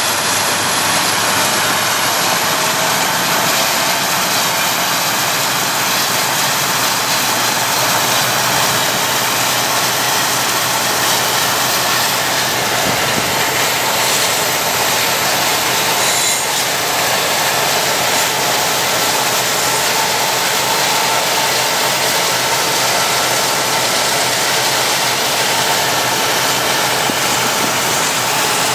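BNSF SD70MAC diesel locomotives of a coal train running steadily, heard from a car pacing alongside, mixed with the car's road and wind noise on a rough road.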